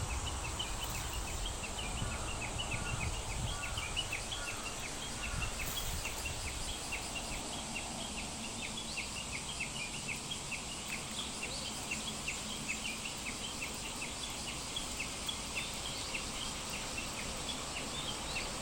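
Outdoor ambience of insects and birds: a steady high insect hiss with a long series of short high chirps repeating a few times a second, and a few lower bird calls about two to four seconds in.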